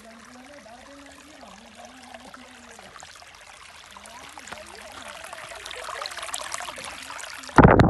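Steady rushing water, growing a little louder toward the end, cut by a brief loud burst of noise just before the end.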